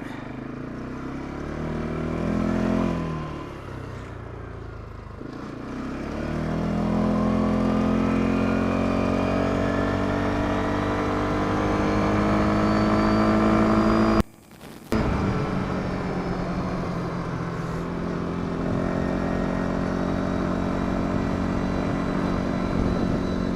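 CFMOTO CFORCE 550 quad bike's single-cylinder engine, just after a full service and valve adjustment, revving up and down briefly, then pulling away with its pitch climbing steadily, then running at a steady cruise. The sound drops out for a moment about halfway through.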